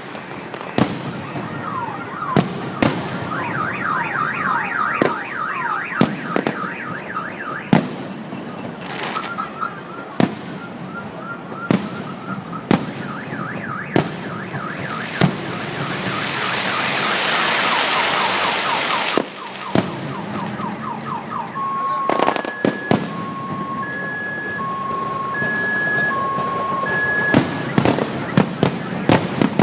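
Fireworks going off: sharp bangs of bursting shells every second or two, with a warbling, chirping wail under them and a stretch of dense crackling hiss around the middle. In the latter part a car alarm beeps in two alternating tones, set off by the blasts.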